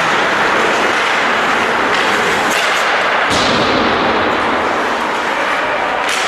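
Steady loud rushing noise with a few sharp knocks and slaps on top of it, a couple in the middle and one near the end.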